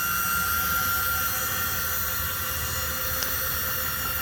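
Hydrohoist power canopy's electric actuators running steadily, a whine of several steady tones over a steady hiss and low rumble, as the canopy raises.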